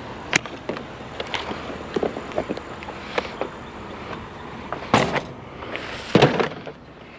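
Scattered clicks and knocks of scrap being handled and shifted, with two longer, louder rough noises, each under a second, about five and six seconds in.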